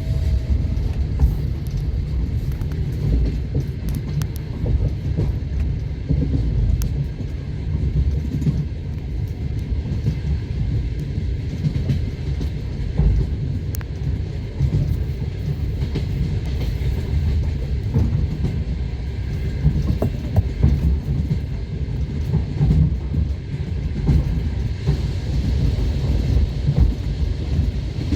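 Passenger train wheels running on the rails, heard from inside the carriage: a steady low rumble with scattered clicks and knocks from the rail joints.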